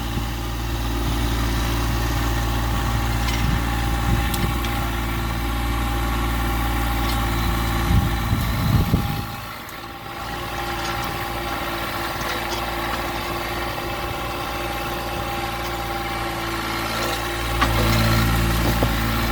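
Massey Ferguson GC1710 subcompact tractor's diesel engine running steadily while working a stump out. A few knocks come about halfway through, the engine note drops briefly, then it picks up again near the end.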